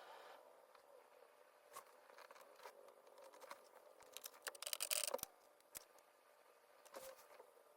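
Faint scattered clicks and light scratching, with a brief flurry of rapid ticks about four to five seconds in: small handling noises at a painting desk.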